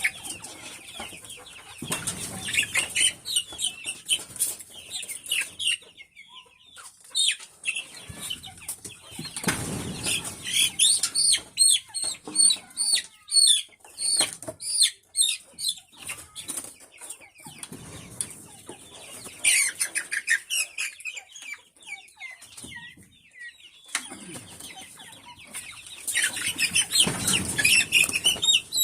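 A flock of chickens giving many short, high chirping calls, with several louder bursts of wing flapping.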